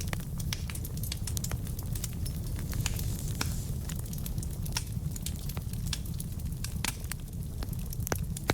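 Wood fire in a fireplace burning with irregular crackles and pops over a steady low rumble of the flames, with one louder pop near the end.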